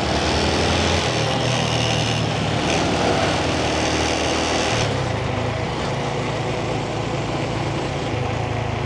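Yamaha 125cc single-cylinder motorbike engine running steadily while riding through town traffic. Its pitch shifts about one second and five seconds in, with a higher whine over it for the first five seconds.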